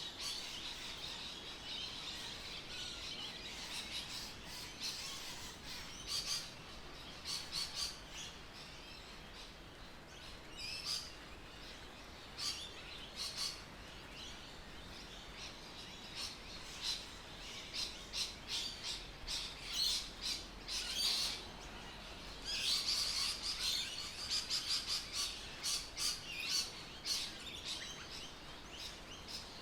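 Birds chirping, many short high calls in clusters that grow busier in the second half, over a faint steady outdoor hiss.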